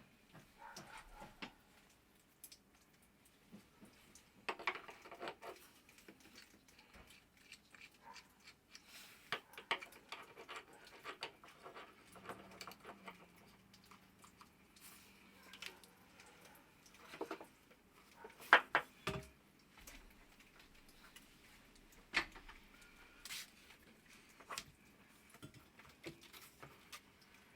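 Scattered light clicks, taps and knocks of hand tools and metal parts being handled during repair work on a leaking water heater hose fitting. A short cluster of sharper knocks comes about two thirds of the way through.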